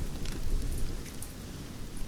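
Wood campfire crackling: scattered sharp pops and snaps, most in the first second, over a steady low rumble of burning.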